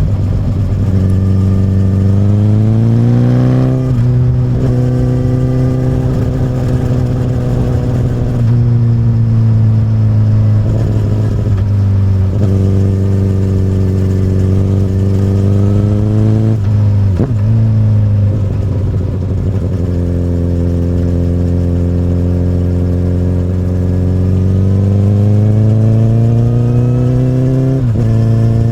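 2008 Honda CBR1000RR inline-four through an Akrapovic carbon slip-on exhaust, ridden on the road. The engine pitch climbs under throttle and drops sharply at gear changes: once about four seconds in, again past the middle, and once near the end. In between it holds steady at cruising speed.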